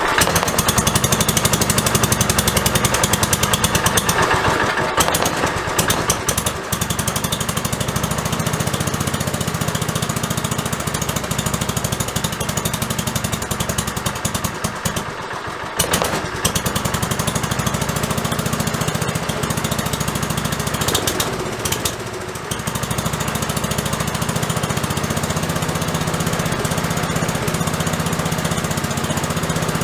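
Restored Kohler K301 single-cylinder engine running on its test run, a loud, rapid, steady putter that starts abruptly at the beginning, with a few brief dips.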